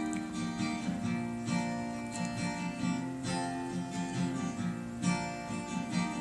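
Instrumental break of a recorded ballad: strummed acoustic guitar chords over a steady low beat, with no vocals.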